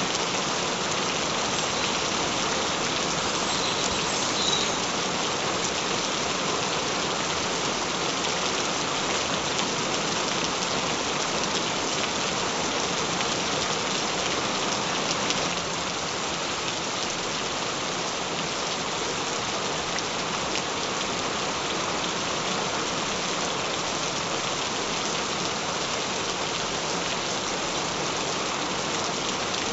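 Steady rain falling, an even patter of drops with no letup; it turns a little quieter about halfway through.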